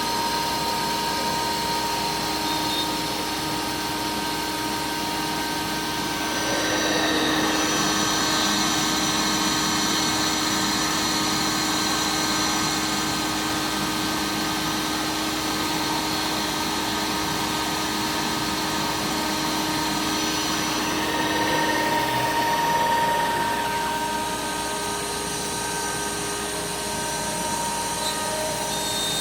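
MillRight Power Route Plus XL CNC router running, its spindle holding a steady whine while the bit mills aluminum composite panel. The cutting noise swells from about six seconds in and eases back again near the end.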